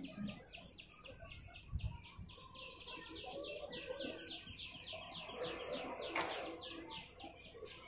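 A bird calling: a fast, even series of short, high chirps, about six a second. A single sharp click comes about six seconds in.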